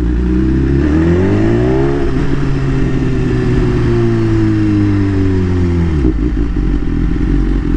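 BMW S1000RR inline-four sport bike engine pulling away. The revs climb for about a second and a half, then sink slowly as the rider eases off, and drop back to a low idle-like rumble near the end.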